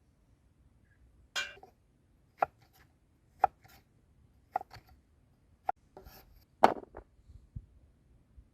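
Knife chopping food on a cutting board, about one cut a second, six or seven sharp strikes in all.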